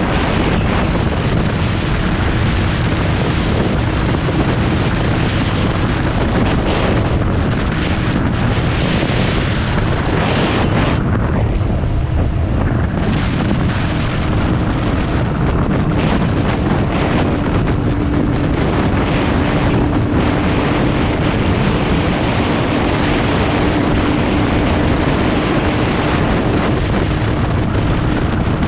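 Steady wind buffeting the microphone of a motorcycle's on-board camera while riding at speed, with the engine's steady hum underneath.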